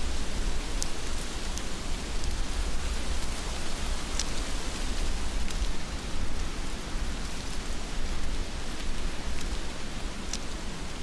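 Steady heavy rain falling, with a low rumble underneath and a few sharp drops landing close by.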